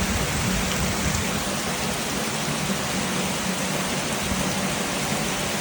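Heavy tropical rain falling steadily, a dense even hiss of rain on the ground and surfaces.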